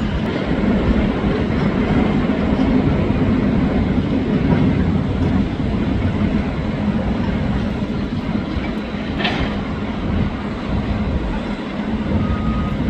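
Diesel demolition machinery running steadily, with a brief clatter about nine seconds in.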